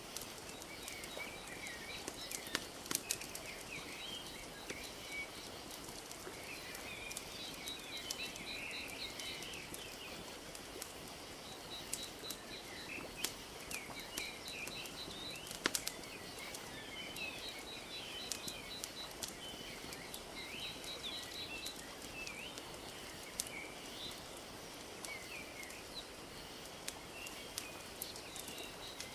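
Wood fire crackling with scattered sharp pops over a soft steady wash of lapping lake water. Small birds chirp throughout, with a rapid repeated trill coming back every few seconds.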